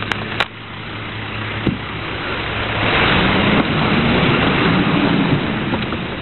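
Heil 5000 rear-loader recycling truck running, with two sharp clicks near the start. Its engine grows louder about halfway through, then eases off near the end.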